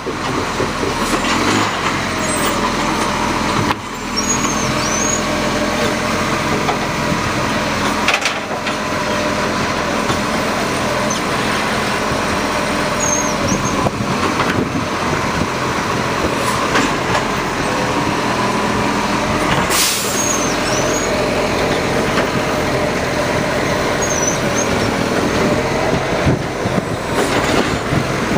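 Garbage truck running steadily, with an even whine and occasional knocks from its working gear, and one short sharp air hiss about twenty seconds in.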